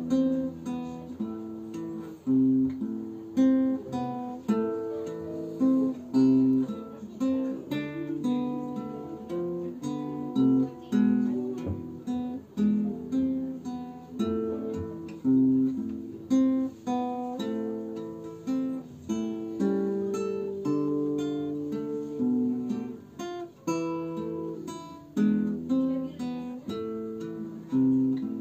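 Solo acoustic guitar playing a slow folk-song melody: plucked notes, each struck and fading, over lower bass notes.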